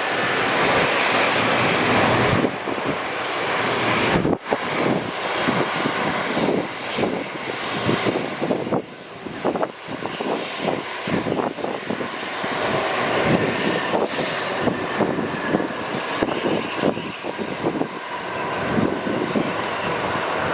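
Jet engines of a Boeing 737 MAX 8 airliner landing, a loud steady rushing noise for the first couple of seconds. It then drops a little and goes on unevenly, rising and falling.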